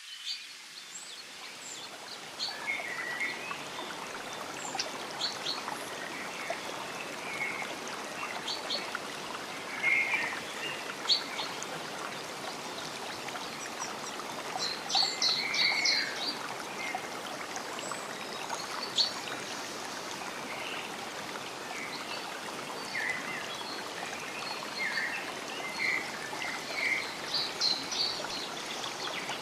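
A stream trickling steadily, with small birds chirping and singing in short calls scattered over it. The sound fades in over the first couple of seconds.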